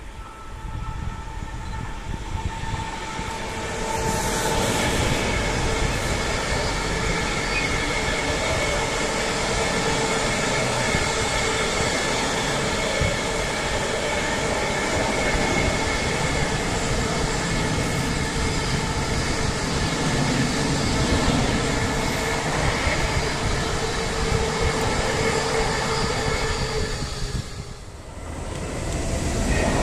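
Long freight train of car-carrier wagons passing close by: a steady rolling rumble of wheels on rail with a few steady ringing tones over it. It builds about four seconds in and drops away suddenly near the end as the last wagon passes. A second train is then heard coming up.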